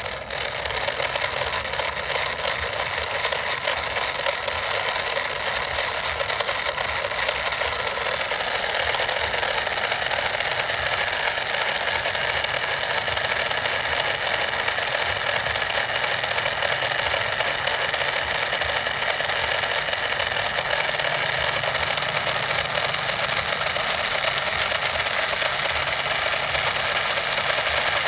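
Small motor-driven mechanism running with a steady whirring rattle, as of small gears turning. It starts suddenly and grows a little louder about a third of the way in.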